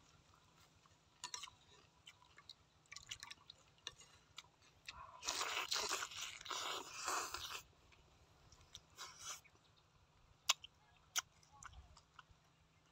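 Biting into and chewing grilled squid: a stretch of crunching from about five to seven and a half seconds in, with short scattered chewing clicks before and after.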